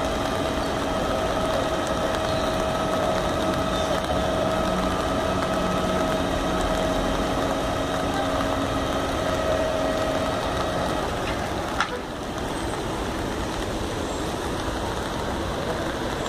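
Steady noise of heavy rain and traffic on a flooded street, with vehicle engines running and a steady whine-like tone through the first ten seconds or so. A sharp click just before twelve seconds in, after which the sound is a little quieter.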